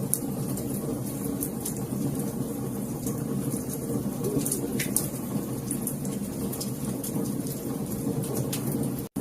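Wood fire crackling in a fireplace: frequent sharp pops and snaps over a steady low rumble of burning. The sound cuts out for an instant near the end.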